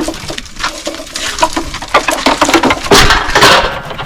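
Busy clinking and clattering: many short knocks of hard objects in quick succession, growing louder about three seconds in.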